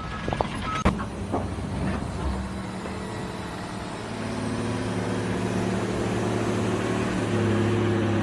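An engine running steadily, its note strengthening about four seconds in and stepping up slightly near the end, with a few sharp knocks in the first second.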